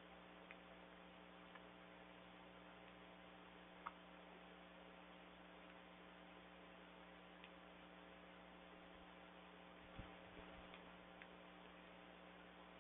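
Near silence: a steady low hum with a few faint, short taps about four and ten seconds in.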